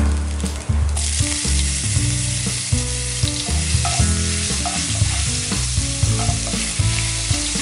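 Hot oil sizzling with whole cumin seeds and chopped ginger in a kadai, stirred with a wooden spatula. The sizzle turns louder and hissier about a second in as the ginger goes into the oil.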